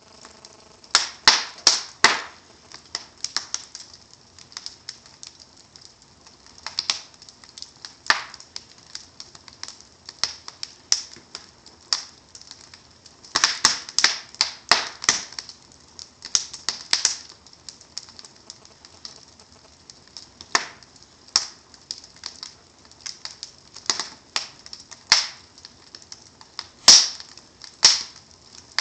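Wood fire in a fireplace crackling, with irregular sharp pops from the burning logs and embers over a faint hiss. The pops come in clusters, with one of the loudest a little before the end.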